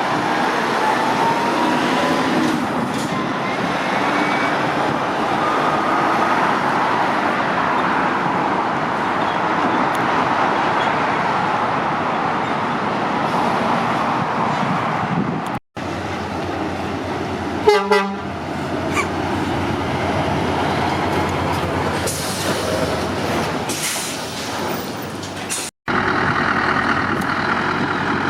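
Steady rumble of heavy motorway traffic and lorries passing, with a vehicle horn tooting once briefly about two-thirds of the way through. The sound cuts out for an instant twice, at edits.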